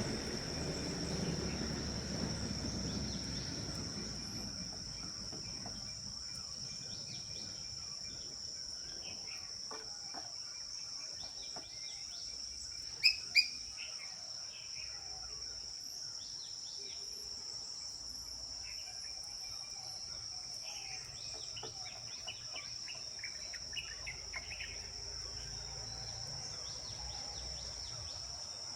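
A steady, high-pitched insect drone of crickets or cicadas, with scattered bird chirps over it and two loud, sharp chirps close together about halfway through.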